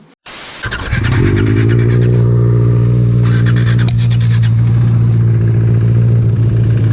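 Motorcycle engine starting up under a second in and settling into a steady idle.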